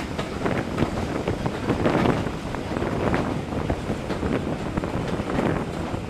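Wind buffeting a microphone held at the open window of a moving train, over the steady running rumble of the carriages with irregular clatter and knocks from the wheels and coach.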